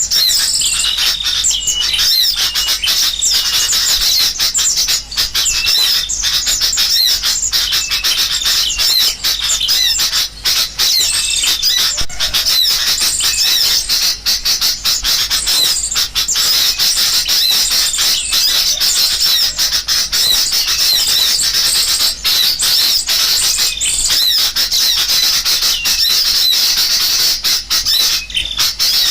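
Bird-lure recording of a noisy, agitated sooty-headed bulbul (kutilang) mixed with the calls of small birds: a dense, unbroken stream of short high chirps and whistles with no pauses.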